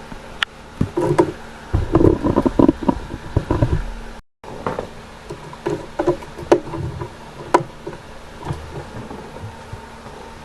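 Irregular clicks, taps and knocks of small screws, plastic spacers and a screwdriver being handled as a voltage regulator board is screwed down onto a model railway baseboard, with a cluster of knocks and thuds in the first few seconds. The sound drops out completely for a moment about four seconds in.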